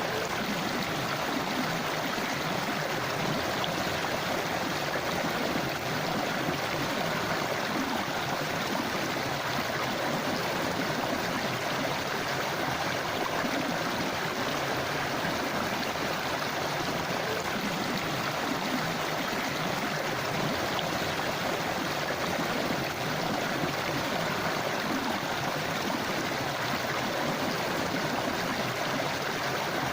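Steady rush and gurgle of a flowing forest river or stream, running water with no breaks.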